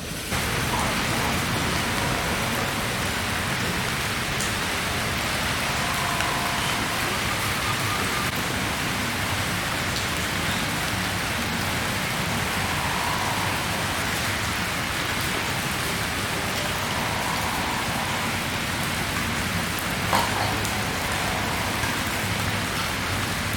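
Heavy rain pouring down, a dense steady hiss that comes in suddenly just after the start.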